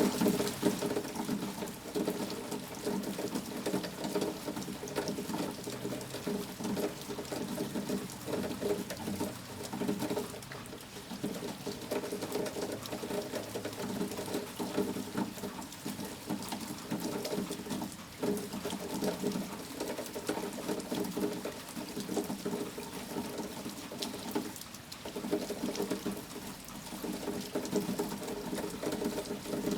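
Steady rain, a dense patter of drops that swells and eases in loudness, dipping briefly twice.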